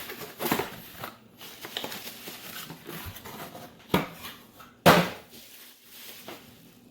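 Cardboard and plastic packaging rustled and handled as an RC radio transmitter is taken out of its box, with scattered small clicks and two sharp knocks about four and five seconds in.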